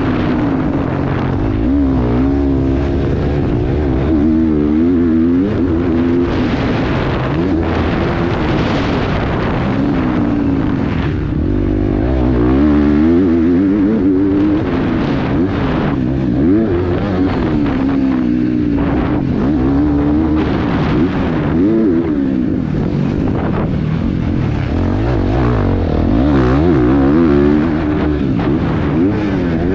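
KTM 350 XC-F dirt bike's single-cylinder four-stroke engine revving hard while ridden around a motocross track. Its pitch climbs and drops again and again, every second or two, as the throttle opens and closes.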